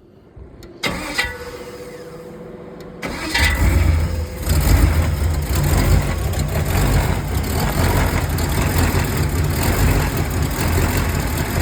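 Chevy 305 small-block V8 cranked on the starter for about two seconds, then catching about three seconds in and running steadily, on one of its first starts after the engine swap.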